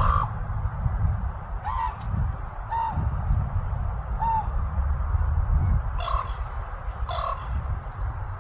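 Common ravens calling: six short, honking calls about a second or so apart, some with a brief arching pitch, over a steady low rumble.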